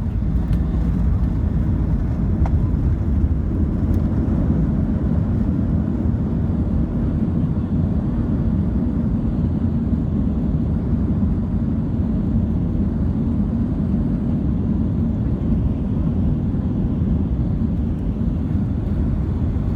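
Steady low rumble of a Boeing 737-900, engines and airframe, heard from inside the passenger cabin while the jet rolls on the ground just after landing. The higher hiss eases a few seconds in.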